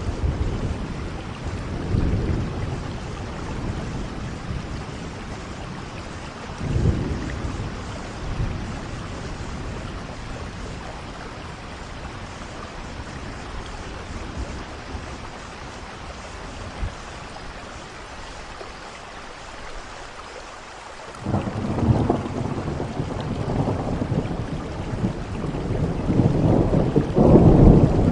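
Steady rain falling, with thunder rumbling: two short rolls in the first several seconds, then a longer roll starting about three-quarters of the way through and growing louder toward the end.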